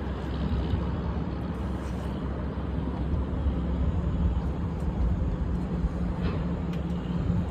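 Steady low rumble of a crane's engine running while the boom swings the personnel basket in.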